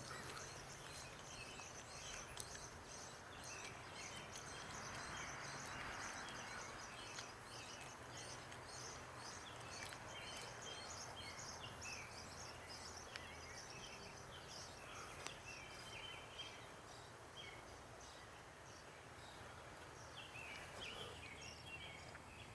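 Small birds chirping faintly, many short high chirps repeating over a soft background hiss.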